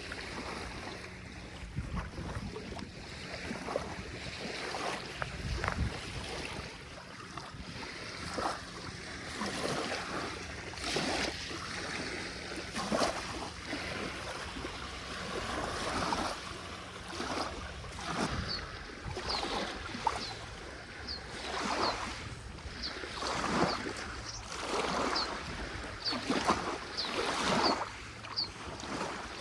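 Small lake waves lapping and washing on the shore, in irregular swells every second or two.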